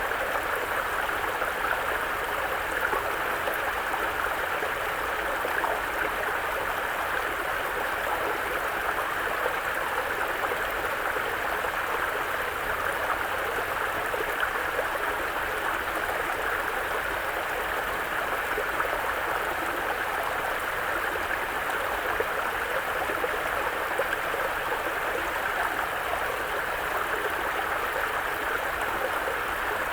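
Mountain brook flowing over rocks: a steady rushing and babbling of water.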